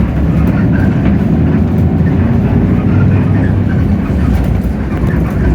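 Hino RK8JRVA-KJF city bus under way, its Hino J08E-VN inline-six diesel running steadily with road noise and a few light cabin rattles, heard from inside the bus.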